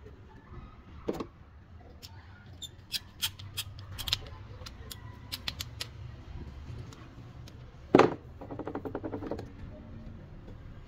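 Screwdriver tightening a worm-drive hose clamp on a rubber gas hose over copper tubing: a scatter of sharp metal clicks and ticks. About eight seconds in comes a loud knock, then a rapid run of clicks lasting about a second.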